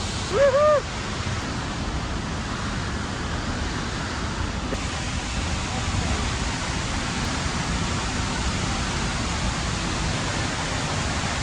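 A waterfall's steady, dense rushing roar of falling water. A short rising-and-falling voice sound comes about half a second in.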